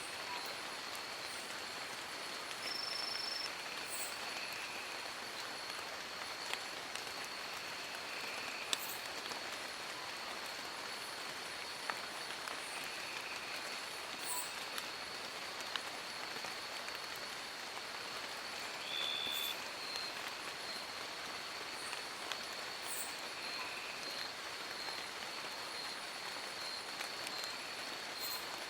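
Steady rain falling in a forest, an even hiss with scattered drop ticks. A continuous thin high-pitched tone runs underneath, and a couple of short high chirps come about 3 seconds in and again around 19 seconds.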